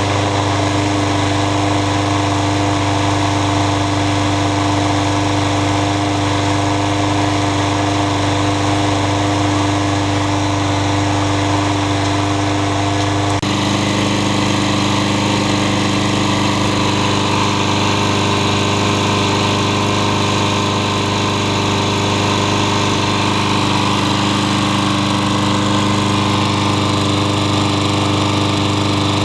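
Yard Machines walk-behind lawn mower engine running steadily after a tune-up with a new spark plug, clean air filter and fresh oil, sounding healthy. Its tone shifts slightly about thirteen seconds in, then runs on steadily.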